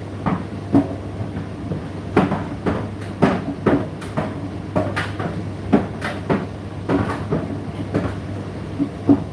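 Indesit IDC8T3 condenser tumble dryer running: a steady low motor hum with irregular knocks, about two a second, as the laundry tumbles and drops in the turning drum.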